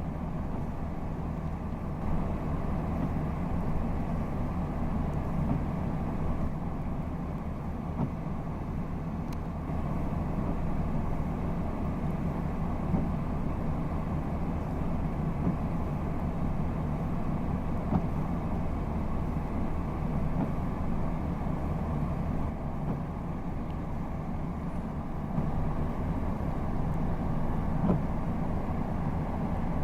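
Vehicle engine idling steadily: an even, low hum that holds unchanged throughout.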